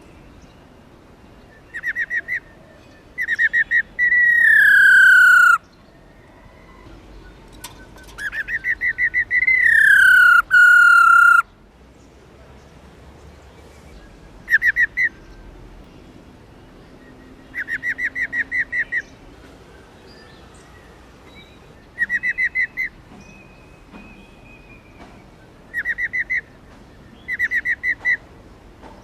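Black-throated laughingthrush calling: short, rapid rattling trills about a second long, repeated every few seconds, the female's 'ro ro' call. Twice, in the first half, a long loud whistle slides downward.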